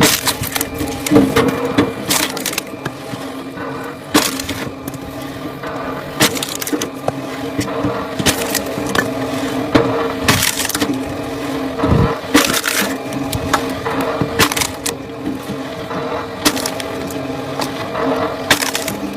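Wood cracking and splintering in sharp snaps, roughly every two seconds, over the steady hum of a powered machine processing firewood.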